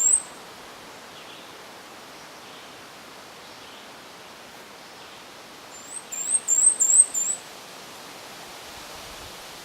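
A small songbird singing a high, thin phrase of quick up-and-down notes: the tail of one phrase right at the start, then a full phrase of about six notes about six seconds in. A steady outdoor hiss lies underneath.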